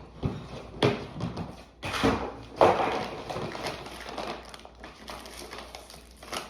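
Rummaging through storage boxes of household items: a few sharp knocks and clatters in the first three seconds, then lighter rustling and handling.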